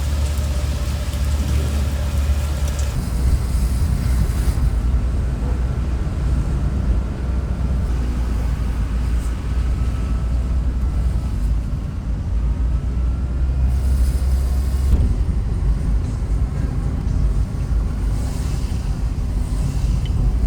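Car driving on rain-soaked streets: a steady low rumble of engine and tyre noise with a hiss of road spray over it.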